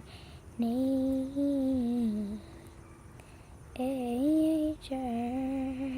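A female voice singing alone, without accompaniment: three held, gently gliding phrases separated by short pauses.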